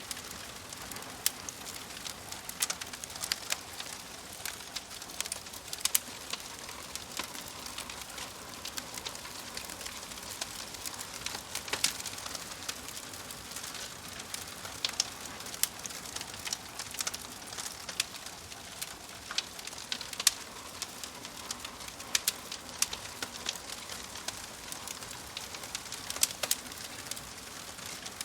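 Wood fire crackling: frequent, irregular sharp pops and snaps over a steady soft hiss.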